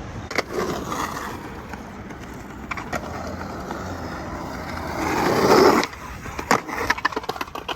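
Skateboard rolling over pavement with a few sharp clacks early on and a swell of rolling noise after about five seconds. A rapid run of board clacks and slaps on the ground follows near the end, as a trick attempt comes down.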